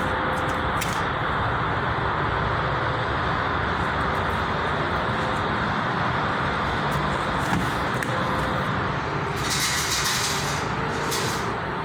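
Steady vehicle noise, with a brief hiss about ten seconds in.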